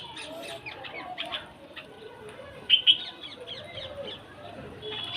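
Many birds chirping and calling together, quick high chirps over lower bending calls, with two sharp loud calls close together near the middle.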